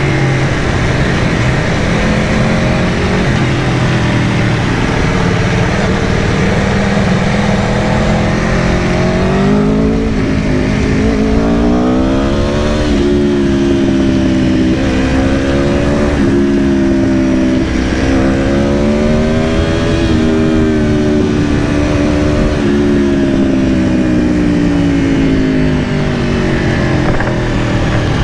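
2022 Aprilia Tuono V4 Factory's V4 engine running at speed, with rushing wind. The engine note holds steady at first, then from about a third of the way in rises and falls repeatedly, with several quick dips in pitch, as the bike accelerates and eases off, and settles again near the end.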